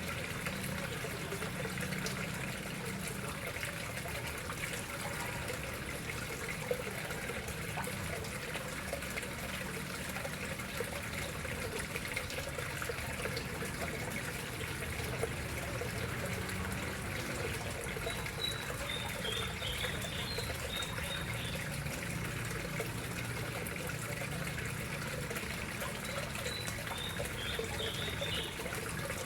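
Water steadily trickling and splashing into a koi pond. Short, faint high chirps come twice in the second half.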